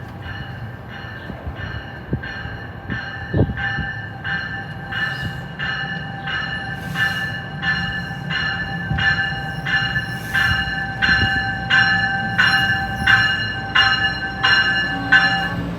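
Train's warning bell ringing steadily, about one and a half strokes a second, growing louder as the NJ Transit train approaches, over a steady whine and a low rumble of the train. There is one sharp knock about three and a half seconds in.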